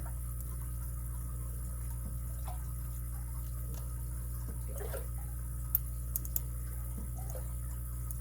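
Lock pick and tension wrench working the pins inside a padlock, with a few faint metallic clicks, three of them close together a little past the middle, over a steady low hum.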